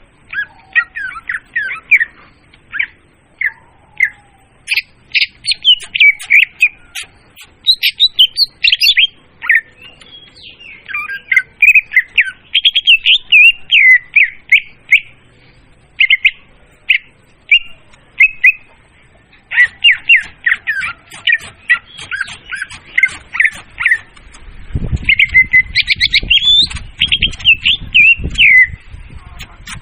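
Leafbird (murai daun) song played as a lure call: fast runs of varied chirps and whistled notes, loud and clear, broken by short pauses. A low rumble runs under the song for a few seconds near the end.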